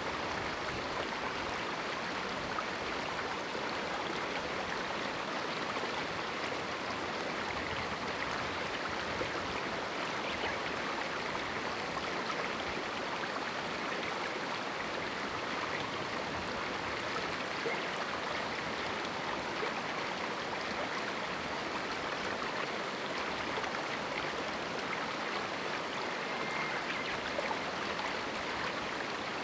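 A river flowing over rocks in a small canyon: a steady rushing and babbling of water with no change in level.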